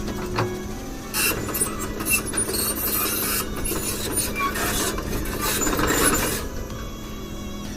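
Excavator running with a steady engine hum, and a stretch of metal scraping and clanking in the middle that then stops.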